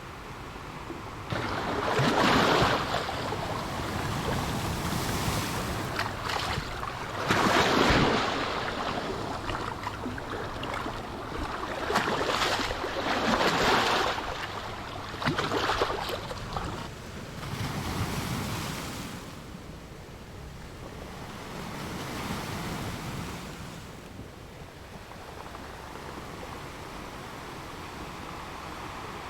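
Ocean waves breaking and washing in, surging every few seconds with the biggest breakers about two, eight and thirteen seconds in. The surf then settles into a softer, steady wash near the end.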